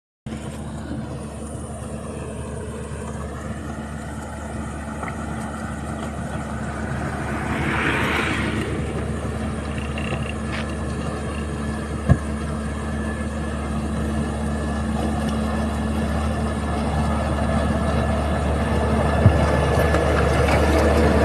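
Heavy construction vehicle's engine running steadily, slowly growing louder, with two sharp knocks in the second half.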